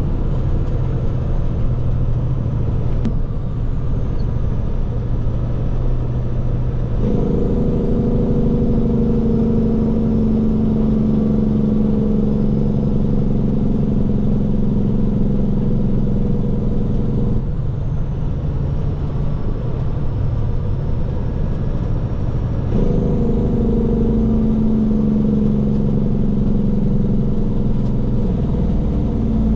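Heavy water truck driving: a steady engine rumble and road noise, with a stronger engine drone coming in twice, once for about ten seconds and again near the end, its pitch slowly falling each time.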